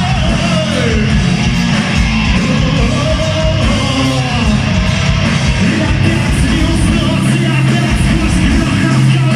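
Live heavy-metal band playing a cover of a Russian rock song: loud distorted guitars, bass and drums, with a gliding vocal or lead-guitar line over them.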